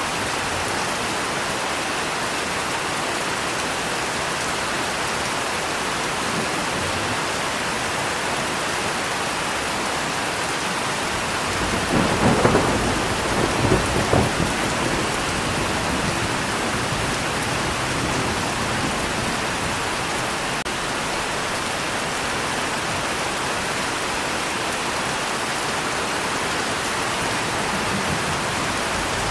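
Steady heavy rain, with a rumble of thunder in two swells about twelve seconds in.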